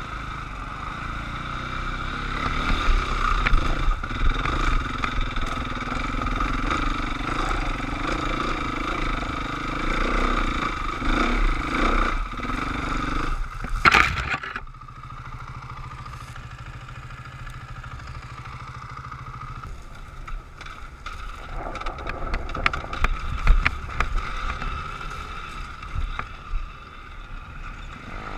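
Enduro dirt bike engine running under load over rough ground. About fourteen seconds in a sharp loud knock cuts it down to a quieter low, steady running. Later come a series of knocks and scrapes.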